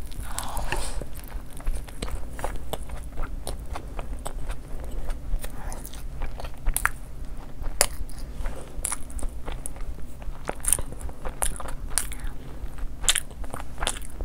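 A person biting and chewing crunchy food close to the microphone, with irregular sharp crunches throughout.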